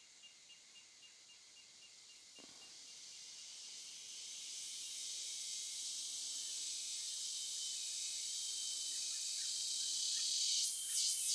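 High-pitched insect buzzing that swells steadily louder over several seconds, breaking into a fast rhythmic pulsing near the end.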